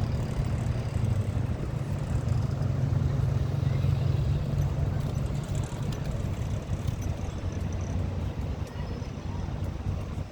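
A bus engine running with a steady low hum that grows weaker after about halfway through.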